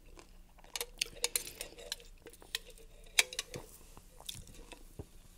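Eating utensil clicking and scraping against a food dish: a string of irregular light taps, a few of them briefly ringing.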